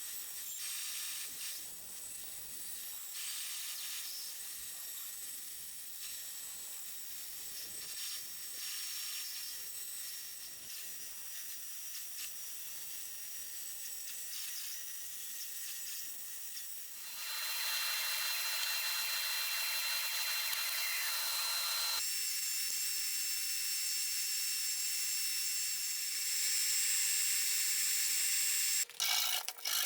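A bandsaw running with a steady high hiss and faint whine, getting louder about halfway through and again near the end.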